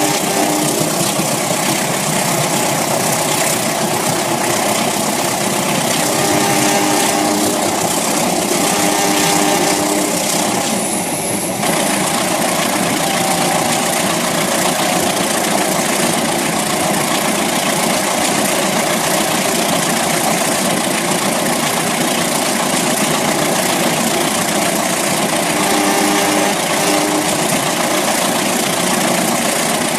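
RailKing model trains running on the layout: a steady mechanical running noise from the locomotives and wheels on the track, with brief steady tones sounding a few times, near the start, around a quarter of the way in, and near the end.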